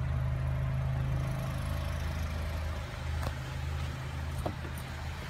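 Acura TSX's 2.4-litre K24 four-cylinder engine idling steadily, with a couple of faint clicks about three and four and a half seconds in.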